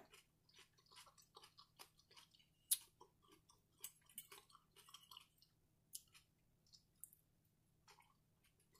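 Faint chewing of fried catfish, with irregular soft mouth clicks and a few sharper clicks, the clearest a little under three seconds in.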